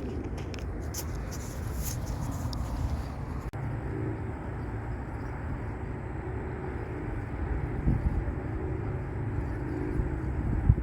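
Steady low outdoor rumble, with a few light clicks and handling noises in the first few seconds.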